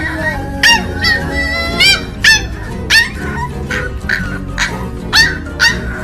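A puppy yapping in short, high-pitched barks, about ten of them, over background music.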